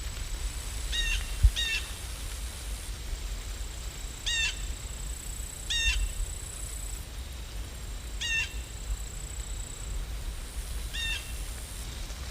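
A bird calling six times, short separate calls at uneven intervals, over a steady low background noise.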